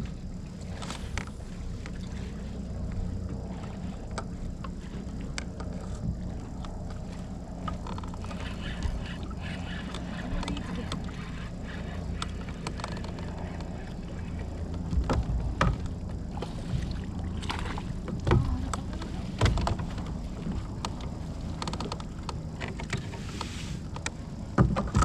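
Sounds from a fishing kayak on the water: a steady low hum with scattered knocks and clicks, which come louder and more often in the second half.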